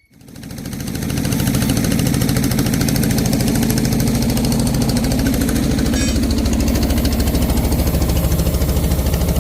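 An engine starts and settles into a steady run with a rapid, even pulsing beat.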